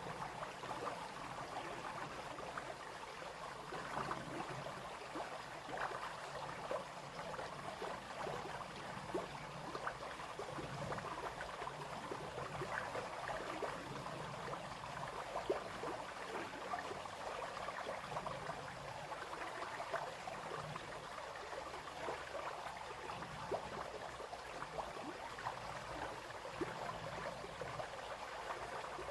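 A small brook babbling and splashing steadily over stones, with many small bright splashes and gurgles.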